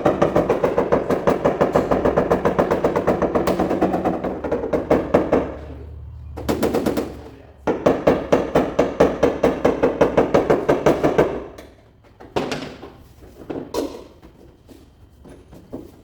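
Rapid, evenly repeated tapping on the car's hood panel from a paintless dent repair tap-down tool working out hail dents. The tapping runs in long bursts that stop and restart, then ends in a few short bursts.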